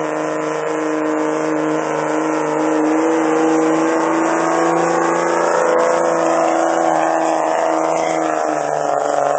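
Turbo-diesel pickup truck engine held at high, steady revs during a sled pull, its pitch creeping up slightly over the first few seconds and then holding.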